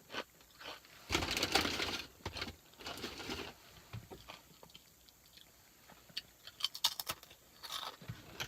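Close-up crunching and chewing of potato chips, with a loud noisy burst about a second in, a shorter one around three seconds, and sharp crackles near the end.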